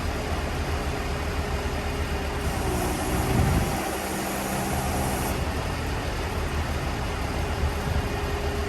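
Heavy diesel truck engine running steadily, with a brief louder surge about three seconds in.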